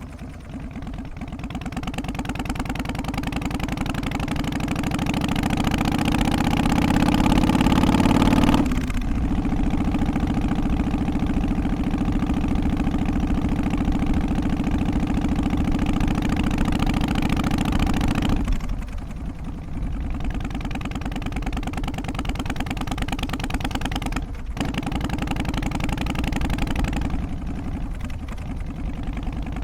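Harley-Davidson Softail's Twin Cam 88 V-twin engine running under way: its note rises steadily for about eight seconds, drops sharply, holds steady for about ten seconds, then falls off in level, with a brief dip a few seconds later before running on steadily.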